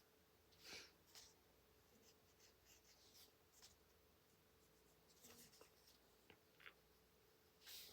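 Faint strokes of a coloring tool on paper, a handful of short scratchy strokes spread over near silence.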